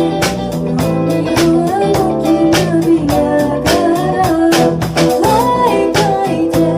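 City pop band music: guitar over bass and drums with a steady beat.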